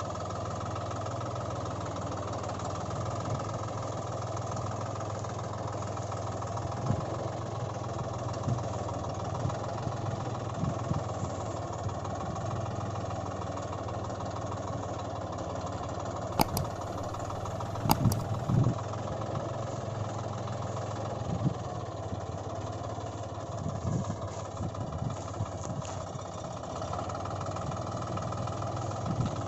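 A steady engine-like running hum, as of a tractor engine idling, with a few short knocks and two sharp clicks about sixteen and eighteen seconds in.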